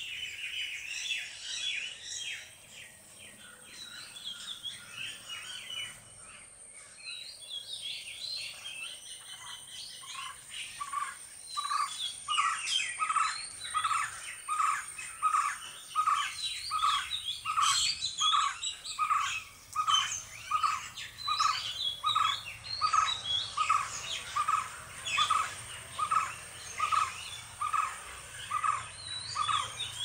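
Wild birds chirping and calling in several overlapping voices. About a third of the way in, one bird begins a short low note repeated about once a second, and it becomes the loudest sound.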